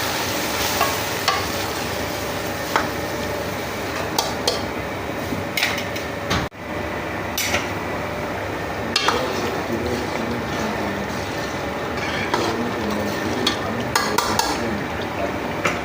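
Food sizzling in hot oil in a cooking pot, with a spoon stirring and now and then clinking or scraping against the pot.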